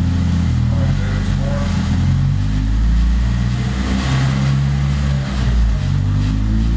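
2007 Honda Civic Si's 2.0-litre four-cylinder running at low, fairly steady engine speed on a chassis dyno, heard through a Skunk2 MPR cat-back exhaust with a Fujita short ram intake.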